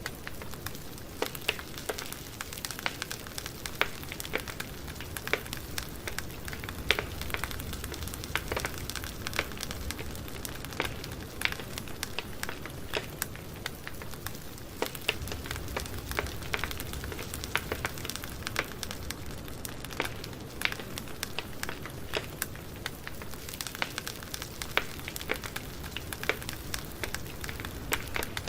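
Campfire burning steadily: a continuous soft hiss with frequent irregular sharp crackles and pops of burning wood, over a low rumble of the flames.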